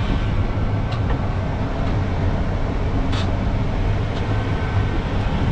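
Dump truck's diesel engine running steadily, heard from inside the cab, with a couple of light clicks about one and three seconds in.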